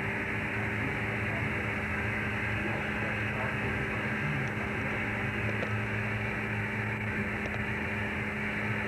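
Steady machinery drone aboard a fishing boat, a constant low hum with a few steady tones and no change in level.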